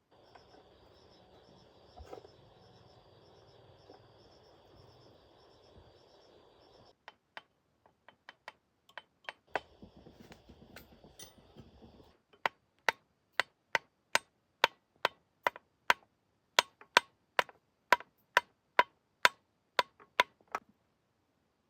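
Insects chirring steadily, then a hammer striking metal: a few scattered blows from about a third of the way in, settling after about twelve seconds into a steady run of loud, sharp blows about two a second that stops shortly before the end.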